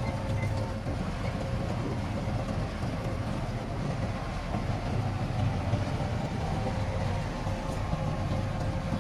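Heavy diesel earthmoving machinery running steadily: a continuous low engine rumble with a faint steady whine above it.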